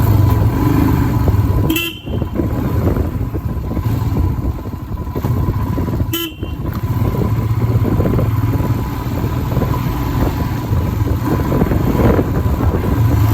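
Royal Enfield Himalayan's single-cylinder engine running under way, with a low steady thump and road and wind noise. Two short horn toots come about 2 seconds and 6 seconds in.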